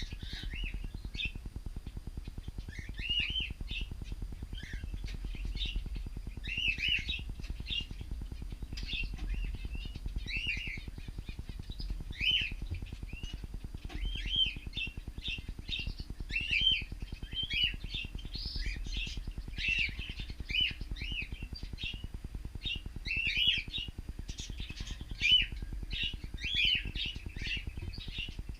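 Cockatiels chirping and calling, short rising-and-falling chirps repeated every second or so, over a low steady hum.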